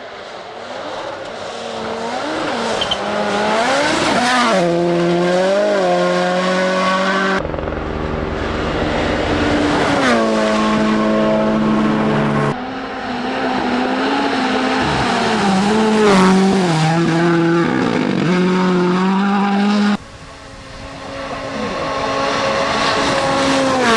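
Rally1 rally cars at full attack on a stage, in several clips cut one after another. Each car's 1.6-litre turbocharged four-cylinder engine rises and falls in pitch through gear changes and lift-offs, getting louder as the car approaches.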